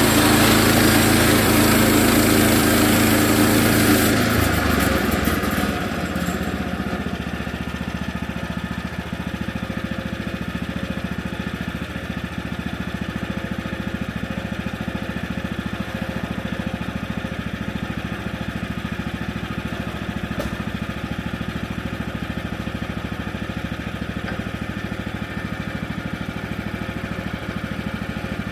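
Woodland Mills HM130MAX bandsaw mill's gas engine running under load with the blade in the cut, loud and hissy; about four seconds in the cut ends and the engine runs on steadily and lighter.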